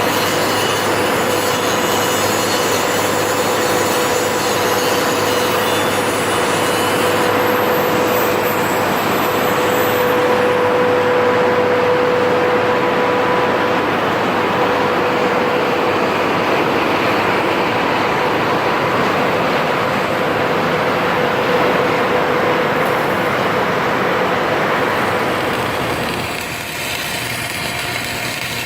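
Steady, loud industrial metalworking noise with a constant whine, easing a little near the end.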